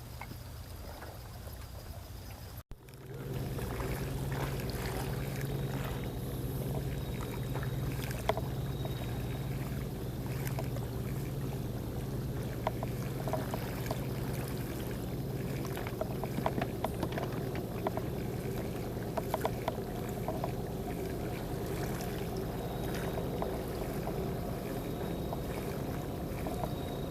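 Steady low hum of an idling boat engine, coming in about three seconds in after a brief dropout, with small light clicks scattered over it.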